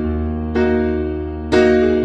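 Background music on electric piano: soft sustained chords, with a new chord struck about once a second over a held bass note.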